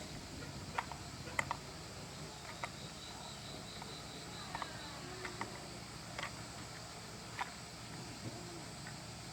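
A dozen or so light, sharp clicks and taps at irregular intervals over a faint steady low hum, with a short run of faint high pips in the middle.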